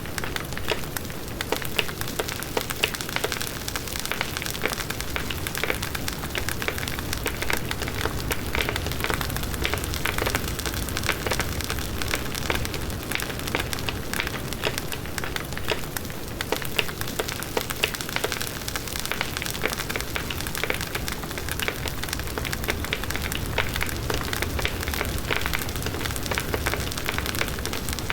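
Large wood bonfire burning: the wood crackles in dense, continual pops over the steady blaze of the flames.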